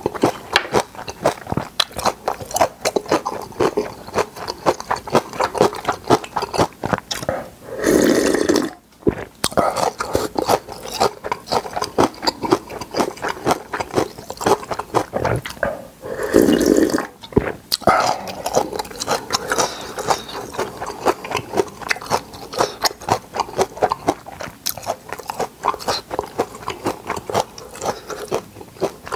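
Close-miked, fast, wet chewing and crunching of spicy napa cabbage kimchi, with two louder rushes of noise under a second long about eight and sixteen seconds in.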